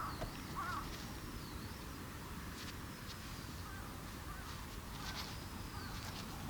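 Wild birds calling: a few short warbling calls in the first second, then thin high whistled calls that recur every couple of seconds, over a steady low background rumble.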